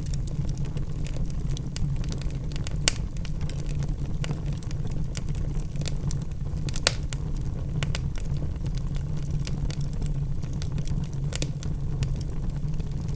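Log fire burning in a fireplace: a steady low rumble of flames with irregular crackles and a few sharper pops from the wood, about three seconds in, near seven seconds and near eleven seconds.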